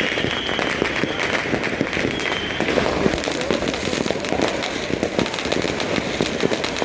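Midnight fireworks and firecrackers going off all around in a dense, continuous crackle of bangs, with high whistles during the first two or three seconds.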